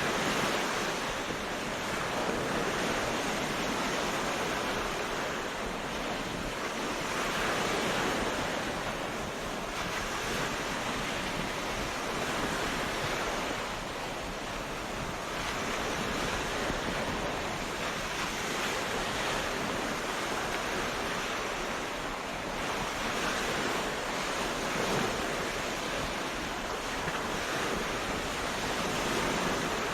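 Ocean waves breaking and washing onto a beach, a steady surf that swells and eases every few seconds, with some wind.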